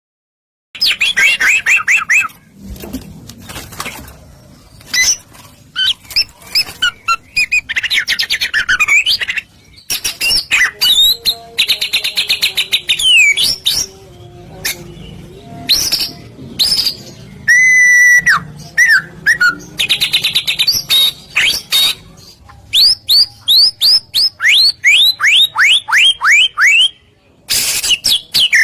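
White-rumped shama (murai batu) singing loudly after a brief silence at the start: varied phrases of fast repeated notes and sweeping whistles, broken by short pauses.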